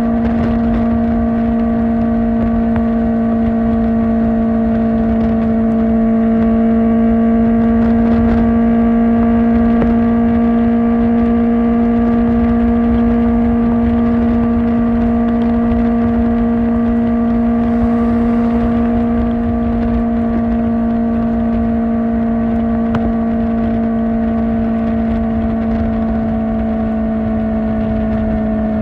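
Kawasaki Ninja ZX-4R's 399 cc inline-four running at a steady, high-revving cruise through an Akrapovic exhaust, its pitch held nearly constant and easing slightly near the end, over a low rush of wind and road noise.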